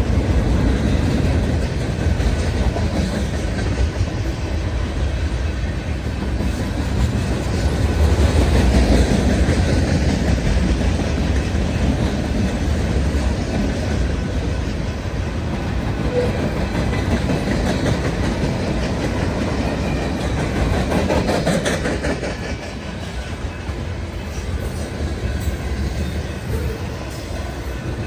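Freight cars of a westbound Union Pacific manifest train rolling past: a steady, loud rumble of steel wheels on the rails, easing a little about two-thirds of the way through.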